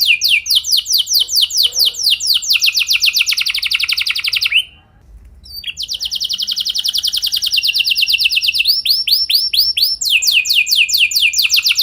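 Domestic canary singing long rolls: rapid trains of identical downward-sweeping notes. There is a short break about five seconds in, and the phrase changes twice after it.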